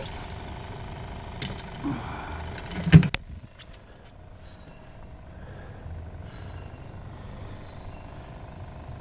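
Clatter and clicks of a dip net and the bait-well hatch being handled on a fishing boat, ending in one loud thump about three seconds in as the hatch comes down. A steady low hum of the boat's motor runs underneath.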